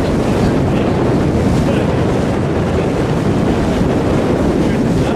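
Wind buffeting the microphone on a moving boat, a steady, loud rush mixed with the wash of water against the hull.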